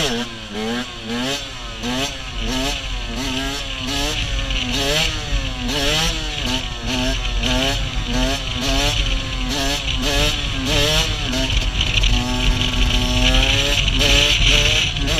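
KTM 125 EXC's single-cylinder two-stroke engine revving in quick throttle blips, about two a second, its pitch rising and falling each time. It holds one steady pitch for a moment, then climbs again near the end.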